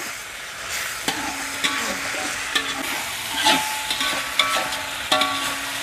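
Ground spice paste with lemongrass, bay leaves and lime leaves sizzling in hot oil in a steel wok while a metal spatula stirs and scrapes it, with frequent short clinks of spatula on wok.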